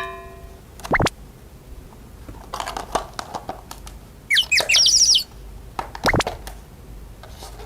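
Cartoon sound effects: two quick downward pitch sweeps about five seconds apart, with a short burst of rapid bird-like chirps between them and some light rustling.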